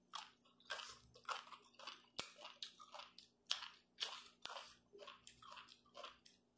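Close-up chewing of a mouthful of chicken-foot salad: short, faint crunching chews, several a second, in an uneven rhythm.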